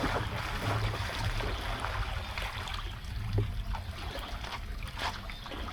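Floodwater flowing and trickling, with scattered small splashes and a low rumble underneath.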